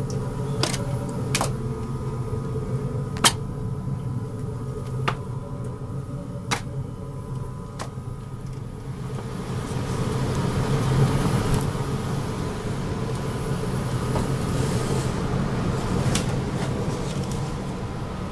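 Furnace running with a steady low hum, plus an airy rush that grows louder about nine seconds in. About six sharp clicks or taps come in the first eight seconds.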